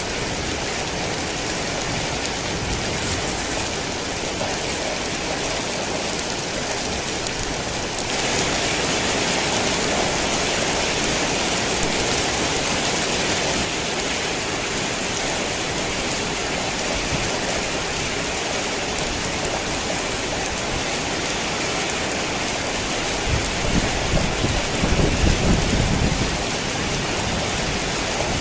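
Steady heavy rain, which grows louder for a few seconds from about eight seconds in, with a low thunder rumble rolling in near the end.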